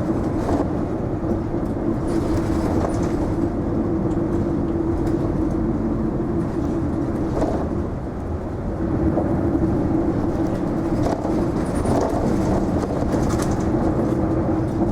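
Inside an Isuzu Erga non-step city bus under way: a steady engine and road drone with a constant low hum. The hum fades out about halfway through and picks up again a couple of seconds later.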